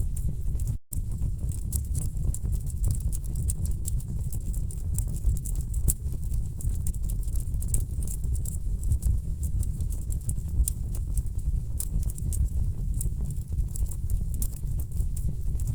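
Wood fire burning in a fireplace: a steady low rumble of flames with quick, irregular crackles and pops from the burning logs. The sound cuts out for an instant about a second in.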